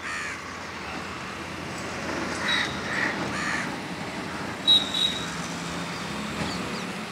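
Birds calling outdoors over a steady hum of distant traffic: a run of three harsh calls about two and a half seconds in, and a couple of short, high chirps around five seconds in.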